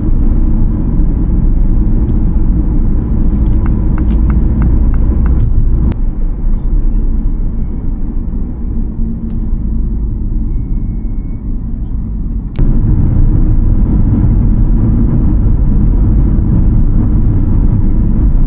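Steady low road and engine rumble inside a moving Mini's cabin. A sharp click comes about two-thirds of the way through, after which the rumble is louder.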